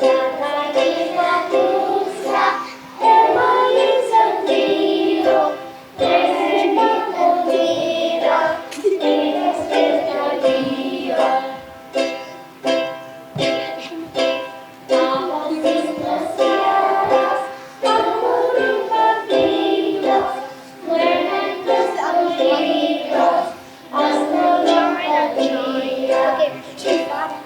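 Ukulele strumming with children's voices singing along, in phrases of a few seconds each.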